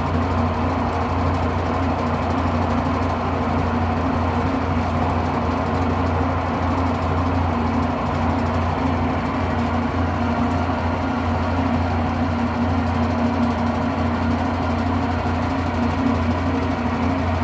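Electrolux Turbo 8 kg (LM08) washing machine in its spin cycle, the loaded drum spinning with a steady low hum at an even speed and no knocking.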